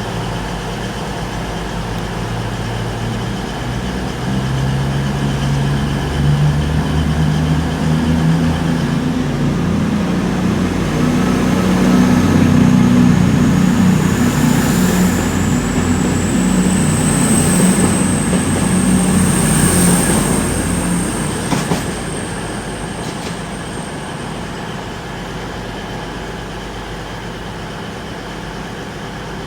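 Diesel train running past at the platform: its engine note rises and swells for several seconds and then fades, with a high, slowly rising wheel or brake squeal over the loudest part.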